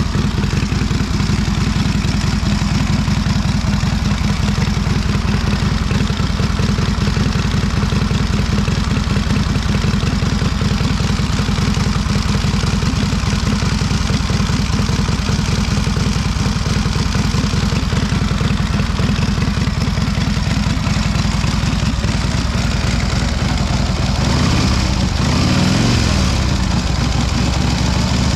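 1928 Indian 101 Scout's flathead V-twin idling steadily as it warms up after a cold start. Near the end the revs rise briefly and drop back.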